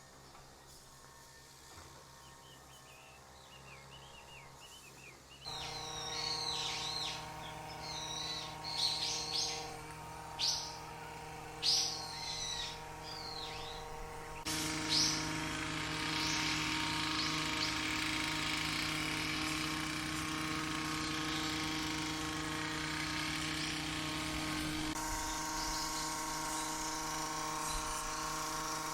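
Small birds chirping and calling in short, quick phrases over a steady droning background of level tones, which changes abruptly twice.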